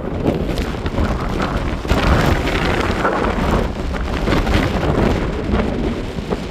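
Strong wind buffeting the microphone, a loud rumbling gusty noise that rises and falls.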